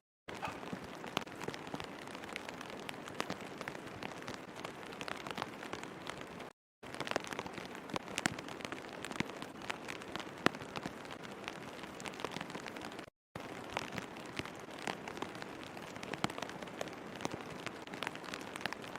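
Steady rain with many small, sharp drop hits, broken by three very brief drop-outs.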